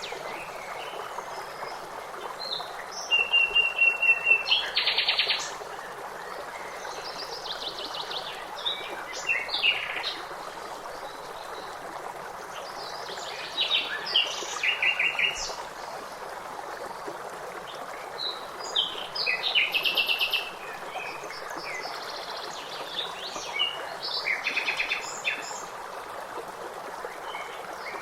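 Songbirds singing in short phrases of rapid trills and chirps that come in groups every few seconds, over the steady rush of running stream water.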